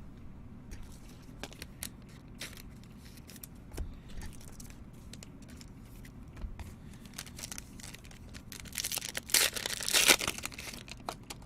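Crinkling of a trading-card pack wrapper and soft clicks of cards being handled. About nine seconds in comes a denser burst of tearing and crinkling, a pack being ripped open.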